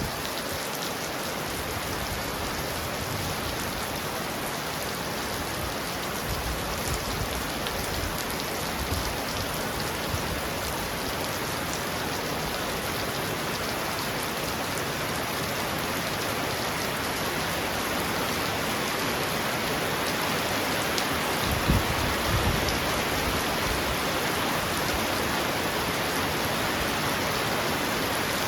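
Heavy rain pouring steadily on a roof, an even dense hiss of drops. About three-quarters of the way through there is one brief low thump.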